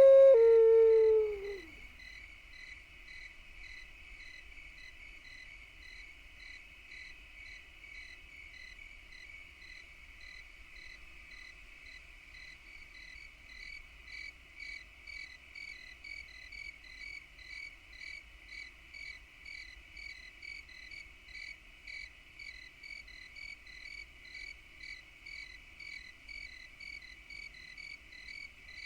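Insects chirping: a steady high trill with a pulse about twice a second that grows more distinct about halfway through. In the first second or two a held flute-like note slides down in pitch and fades out.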